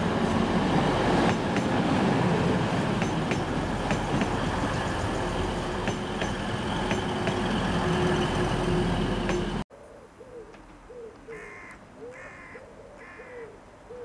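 A TransPennine Express diesel multiple unit passes close by, its engine and wheels running steadily with regular clicks as the wheels cross rail joints. About ten seconds in, the train sound cuts off abruptly, leaving much quieter bird calls: short low notes over and over, and a higher call repeated about once a second.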